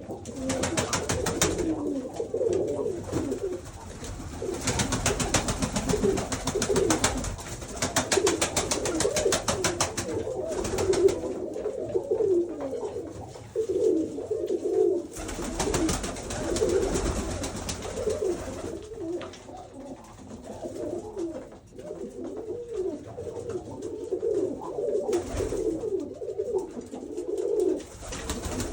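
Many Orlik Lubelski fancy pigeons cooing in a small loft, their low coos overlapping throughout. Several stretches of fast, dry rustling noise run over the coos.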